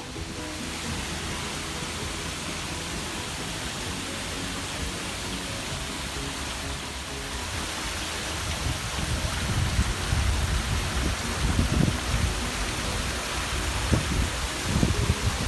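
Water falling steadily in a garden waterfall, an even splashing hiss, with low rumbling gusts on the microphone growing from about halfway through.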